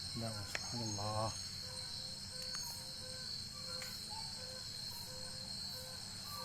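Night insects, crickets, chirring in a steady high drone, with a faint short low tone repeating about twice a second. A brief voice-like sound comes in the first second or so.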